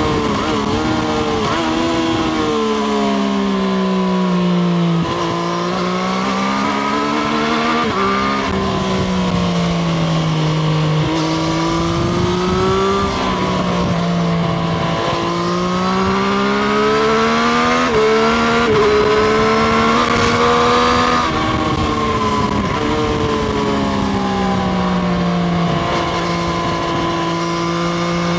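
Triumph Street Triple RS's 765 cc three-cylinder engine heard from onboard while riding. Its note repeatedly climbs and falls as the bike accelerates, shifts and rolls off the throttle.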